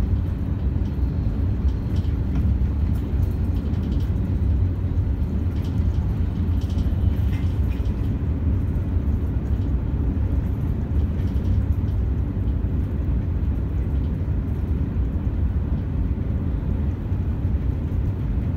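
Cabin noise inside a KTX high-speed train running at speed: a steady, even low rumble.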